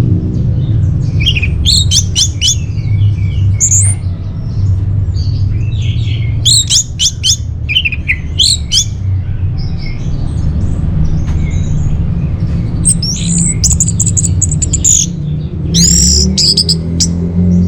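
Orange-headed thrush (anis merah) singing in short bursts of rapid, high, shifting notes, several phrases with brief gaps between them, over a steady low hum.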